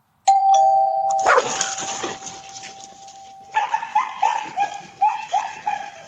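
A two-note doorbell chime rings, followed by a dog barking: a loud outburst just after the chime, then a quick run of barks, about three a second, in the second half.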